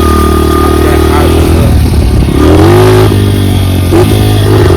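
Dirt bike engine running, revving up with a rising pitch about two seconds in, then settling back to a steady drone near the end.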